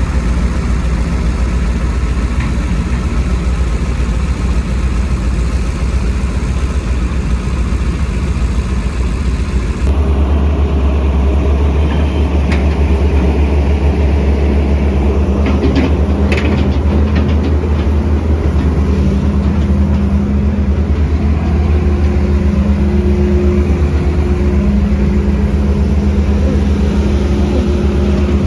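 Heavy diesel construction machinery running steadily. About ten seconds in the sound shifts abruptly to a deeper, louder engine, and a few short metallic clanks follow a few seconds later.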